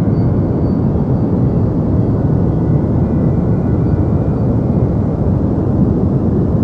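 Steady deep white noise for sleep: an even, unchanging hiss weighted toward the low end, like a soft continuous hum, with no breaks or changes.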